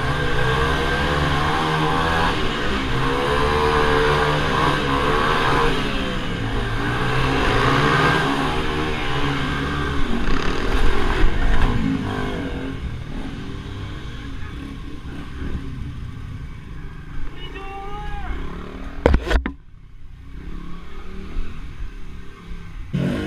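Several small minibike engines revving up and down as they race around a track, the pitch rising and falling with each lap. After about twelve seconds the engines grow quieter. A sharp knock comes about three-quarters of the way through.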